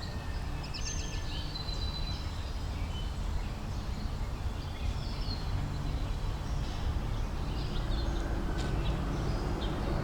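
Small birds chirping in short phrases over a low, steady outdoor rumble that grows slightly louder toward the end.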